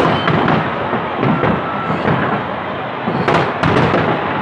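Aerial fireworks display: a steady, dense rumble of overlapping shell bursts and crackle, with a cluster of sharper bangs about three and a half seconds in.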